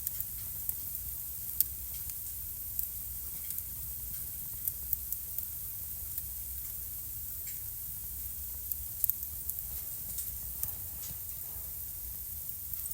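Wood fire burning in a fireplace: irregular sharp crackles and pops over a steady hiss, with one louder pop about a second and a half in and a quick double pop near the end.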